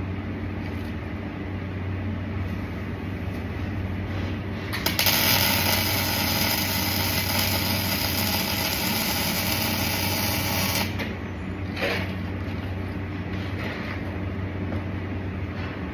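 A welding arc hissing steadily for about six seconds, starting about five seconds in and cutting off sharply, over a constant electrical hum from the welding equipment.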